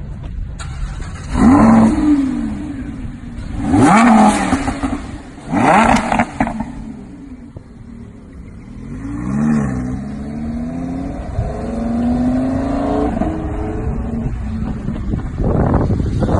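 Sports car engine revved hard three times in quick succession, each rev rising and dropping back, then running with its pitch rising and falling before another loud rev near the end.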